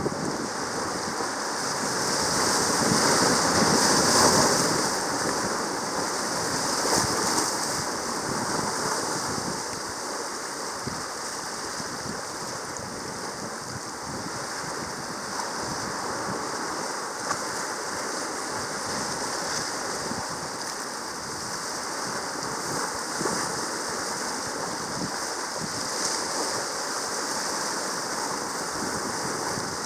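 Sea surf washing steadily along a rocky reef shore, with wind on the microphone; it swells louder about two to five seconds in.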